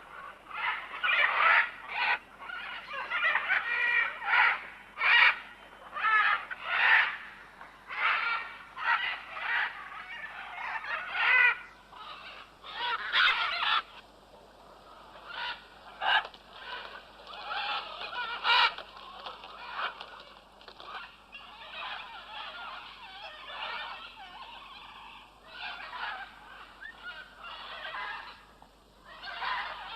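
Green-winged macaws calling: a run of harsh, loud squawks that come thick and fast at first and turn quieter and more scattered about halfway through.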